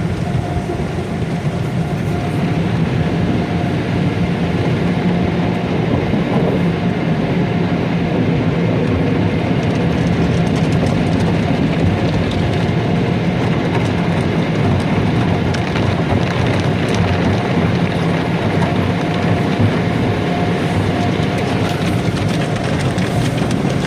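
Automatic car wash working over the car, heard from inside the cabin: a steady, loud wash of spraying water, scrubbing brushes and machinery, with a faint steady whine.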